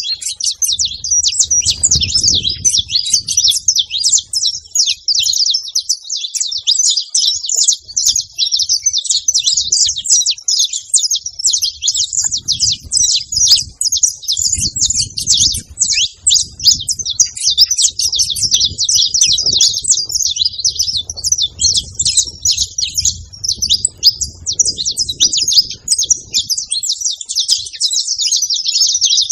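Many saffron finches chirping and singing at once: a dense, unbroken chatter of short, high chirps.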